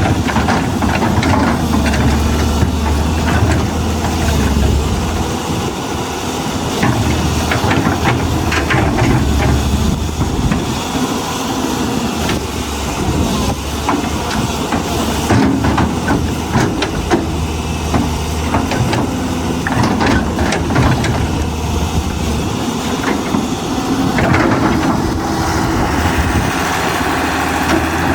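Caterpillar 320C hydraulic excavator's diesel engine running steadily, with a hiss over it and scattered short knocks and clanks.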